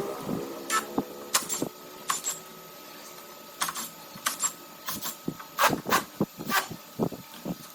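Irregular sharp clicks and taps of hand tools and metal parts being handled at a workbench, bunched in small groups with short gaps between them.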